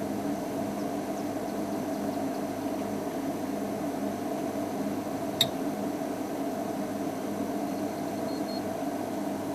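Game-drive vehicle's engine running steadily, with one sharp click about five and a half seconds in and a few faint high peeps near the end.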